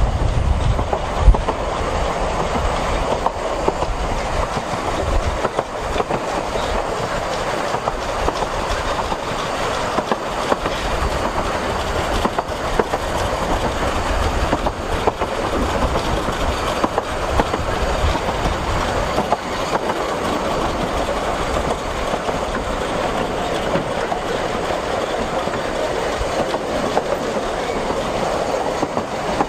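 Narrow-gauge railway carriage running along the track, heard from on board: a steady rumble with wheels clattering over the rails. A single sharp knock comes about a second in.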